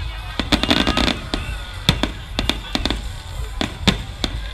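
Fireworks display: a rapid, irregular string of sharp bangs and crackles as aerial shells burst, several a second.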